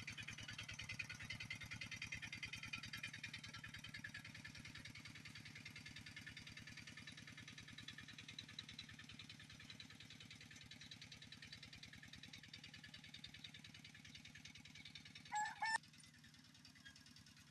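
Kubota diesel tractor engine running with a fast steady pulsing beat while tilling, slowly growing fainter. About fifteen seconds in, a brief double honk-like call rises over it.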